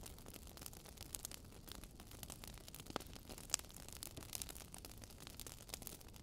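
Wood fire crackling in a fireplace: a steady low hiss with irregular small pops and snaps, a couple of them louder about three seconds in.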